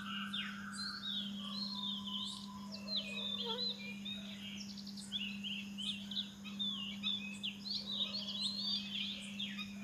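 Birds chirping busily in quick, high, pitch-sliding notes, over a steady low hum.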